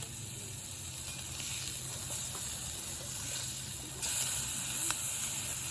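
Bonfire hissing steadily with a few faint crackles, the hiss growing louder about four seconds in.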